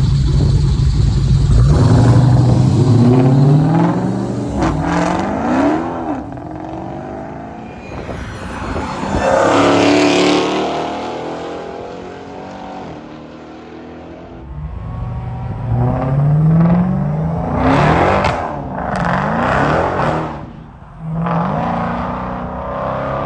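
Very loud Dodge Challenger exhaust as the car accelerates hard, its engine note rising again and again as it pulls through the gears. It swells loudest as it passes about ten seconds in and again a little before the end.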